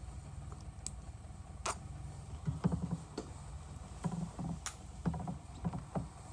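Hand rubbing on a plastic headlight lens in irregular strokes over a steady low rumble, with a few sharp clicks.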